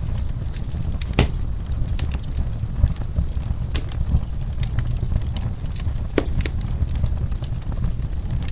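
Wood fire crackling, with scattered sharp pops over a steady low rumble; the loudest pops come about a second in, near the middle and about six seconds in.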